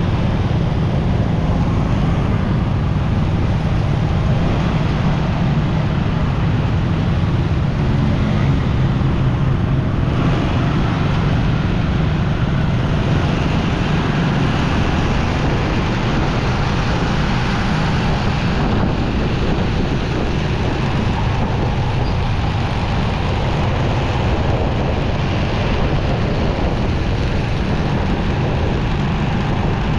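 Motorcycle engine running steadily on the move, mixed with wind rush and the noise of surrounding road traffic.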